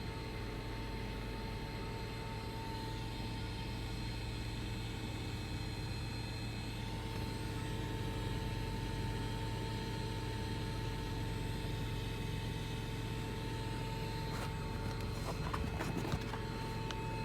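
A steady whining tone from the rear driver-side seat area of a 2009 Dodge Challenger SE, over the car's constant low road and engine rumble. A few light clicks or rattles come near the end.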